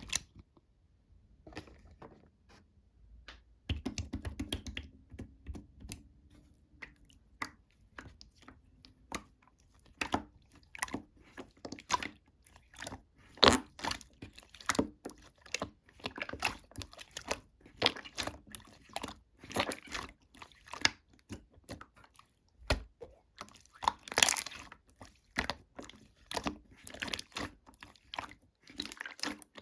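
Slime being squeezed and pressed by hand, giving off a quick irregular run of sticky clicks, pops and crackles. It is sparse at first and grows busier a few seconds in.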